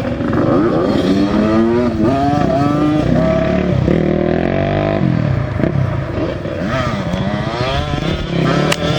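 Racing motorcycles going past one after another, their engines revving, with the pitch of each rising and falling as it goes by.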